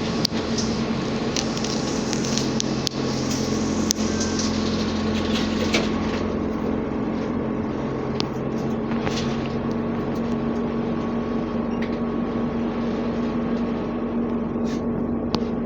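Cabin noise of a ZiU-682G trolleybus under way: a steady electrical hum with scattered clicks and rattles, and a high hiss that fades about six seconds in.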